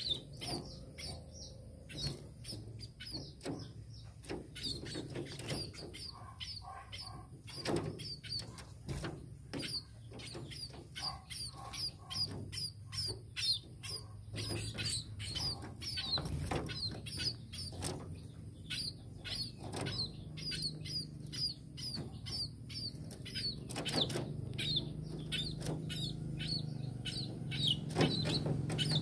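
Tame munia (burung pipit) giving short, high chirps in quick succession, over a steady low hum.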